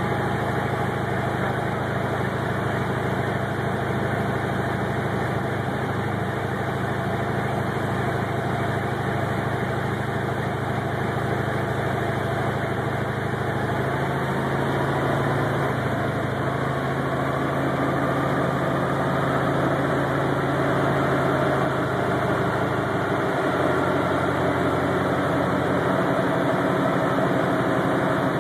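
Porsche 928S V8 running steadily through a smog test, its rear tyres on the rollers of a chassis dynamometer, with a continuous engine and roller hum. The low tone shifts about halfway through and again near the end, with a faint rising whine in between.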